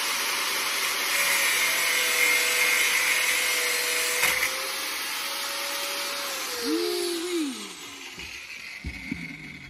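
Angle grinder running and cutting metal, then switched off about six seconds in, its pitch falling as the disc winds down. A few knocks near the end.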